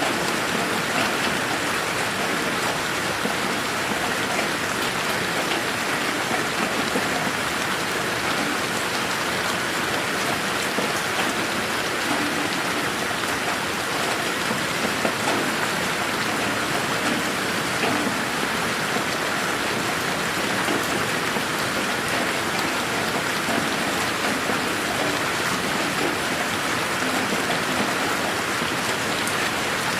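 Steady rain falling on a garden, an even hiss with scattered drops pattering close by.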